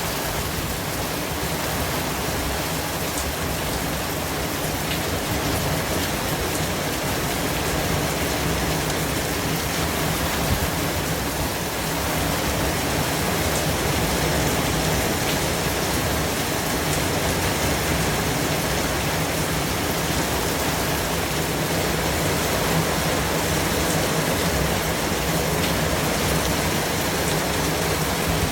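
White noise: a steady, even hiss with no tone or rhythm.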